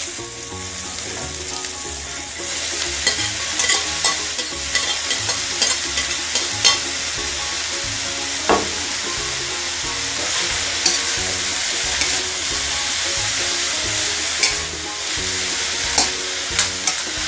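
Vegetables frying in a wok, first sautéed tomato and onion, then eggplant strips, with a steady sizzle that grows a little stronger a couple of seconds in. A spatula clicks and scrapes against the pan many times as the eggplant is stirred.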